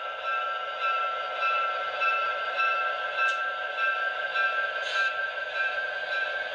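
Atlas HO-scale GP39-2's QSI sound decoder playing its diesel engine sound through the model's small speaker: a steady hum with a pulse about three times a second.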